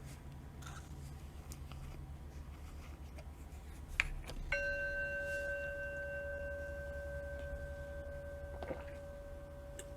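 Singing-bowl chime from a meditation timer: a short click, then the bowl tone about halfway through, ringing on with several steady overtones and slowly fading.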